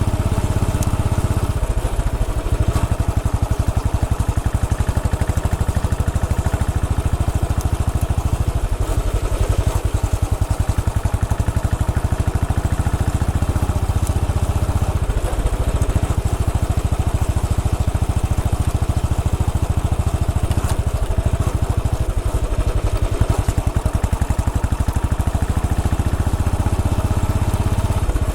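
Royal Enfield Bullet 500's single-cylinder, air-cooled engine running with a steady, evenly pulsing low thump as the motorcycle is ridden. The engine note shifts slightly a few times.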